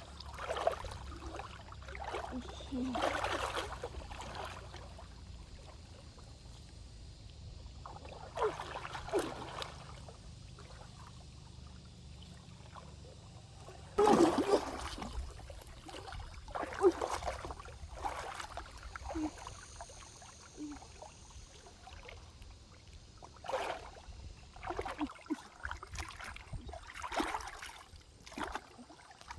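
Shallow stream water splashing and trickling in irregular bursts, as it is stirred by hand. The loudest splash comes suddenly about halfway through, over a low rumble that stops at the same point.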